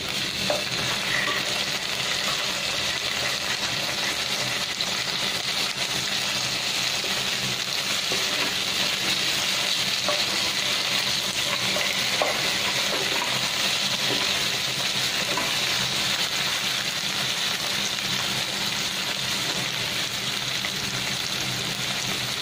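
Garlic, onion and tomato wedges frying in oil in a stainless steel pan: a steady sizzling hiss, with occasional light scrapes as a wooden spatula stirs them.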